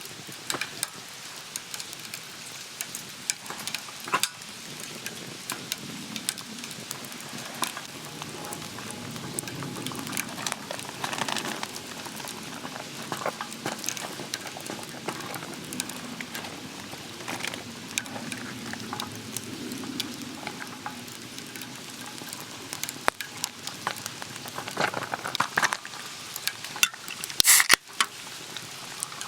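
Monjayaki batter sizzling on a hot iron griddle over a wood fire, a steady crackling hiss broken by scattered sharp clicks and scrapes, with a few louder clacks near the end.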